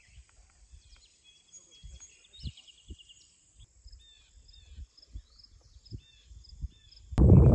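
Faint birds chirping and calling, many short repeated notes, with scattered soft low knocks. About seven seconds in, a loud, steady rushing noise cuts in suddenly and drowns them.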